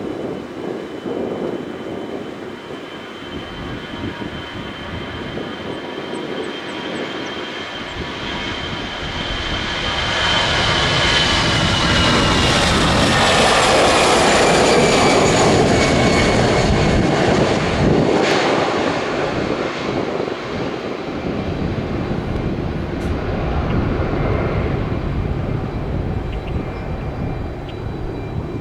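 Airbus A320-200 jet airliner taking off. Its engine sound builds to a peak, the high turbofan whine gliding down in pitch as the plane passes, then eases off as it climbs away.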